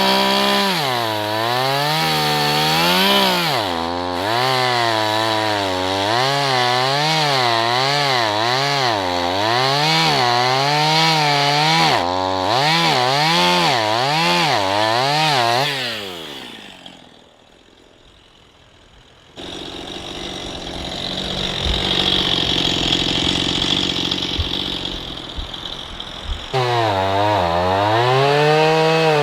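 Chainsaw cutting into a tree trunk, its engine pitch dipping and rising about once a second as the chain bogs and frees in the wood. About two-thirds of the way through the saw dies away, leaving a few seconds of steady hiss with some low knocks, and the saw runs and revs again near the end.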